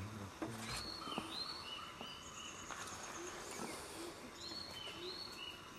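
Open forest ambience with a small bird singing a phrase of short high notes, the phrase heard twice, and a few faint clicks.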